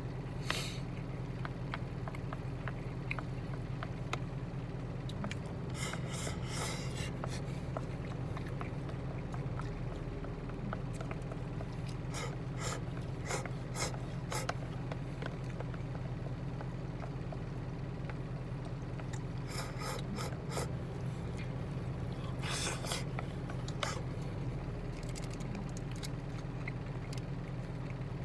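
Steady low hum of the truck idling, heard inside the cab, with several short bouts of scraping and clicking from eating out of a bento box.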